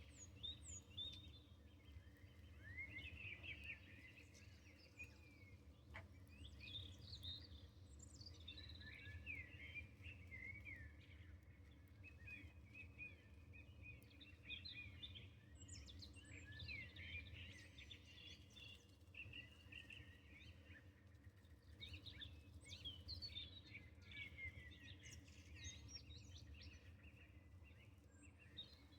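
Faint birdsong: several birds chirping and trilling on and off throughout, over a low steady background hum, with a single sharp click about six seconds in.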